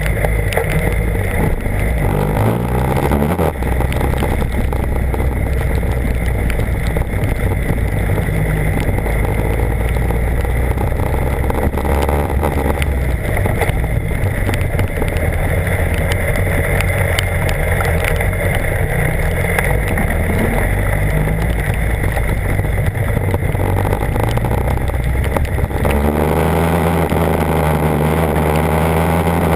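BMW HP4's inline-four engine running as the motorcycle is ridden, with a constant rush of wind and road noise. The engine's pitch rises and falls a couple of seconds in and again near the end as the revs change.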